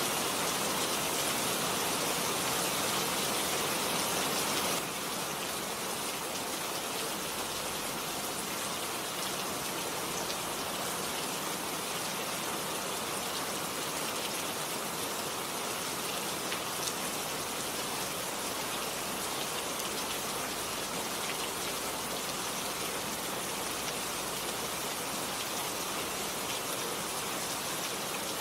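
Steady rain falling, an even hiss dotted with drop patter, turning slightly softer about five seconds in.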